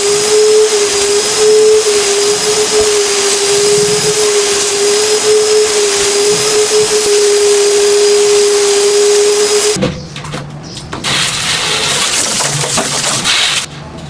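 Vacuum cleaner running steadily with a constant whine, cutting off suddenly about ten seconds in; quieter, irregular handling noises follow.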